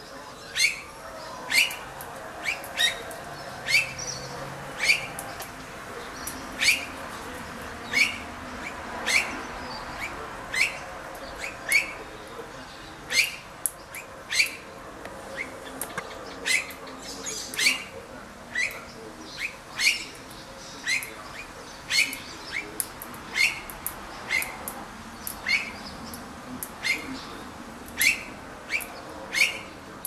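A bird repeating a short, sharp chirp that drops in pitch, about three calls every two seconds, over faint steady background noise.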